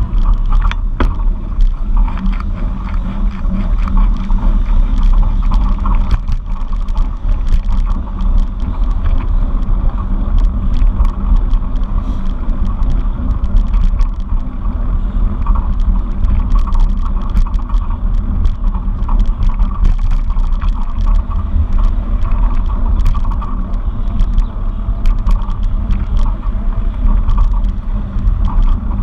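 Steady, loud wind rumble and road noise from riding a bicycle, with many small rattles and clicks from bumps along the way.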